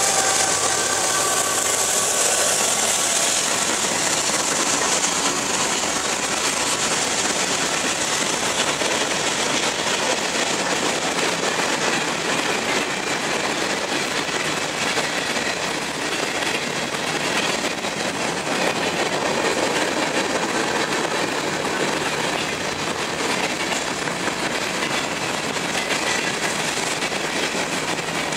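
Freight train rolling past at speed: a string of empty covered hopper cars making a steady rumble and clatter of steel wheels on the rails. The last of the locomotive horn's tones fade out in the first second.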